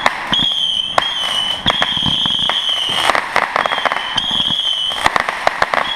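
Fireworks going off in a run of sharp pops and crackles, irregular and bunching into quick flurries in places. Behind them a steady high-pitched whistling tone runs on, dropping out briefly here and there.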